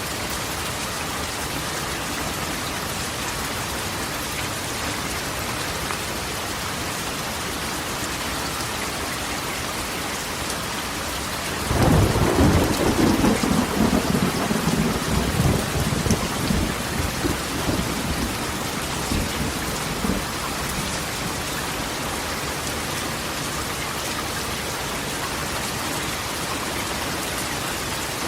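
Steady rain drumming on a corrugated metal roof. About twelve seconds in, a clap of thunder breaks in suddenly and rolls on as a low rumble for several seconds before fading back under the rain.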